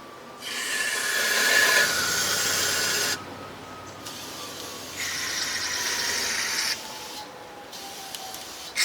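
Compressed air hissing from a blow gun in sharp-edged bursts, blowing out cleaned outboard carburetor parts: two blasts of two to three seconds, with a third starting at the very end.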